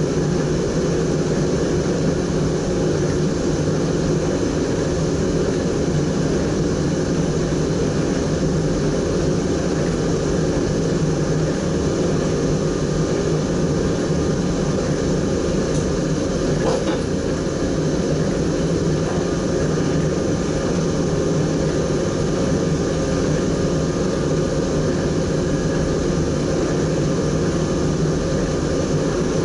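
Steady running noise of an SGM Sprinter electric train under way, heard inside the driver's cab, with a few faint steady tones over it.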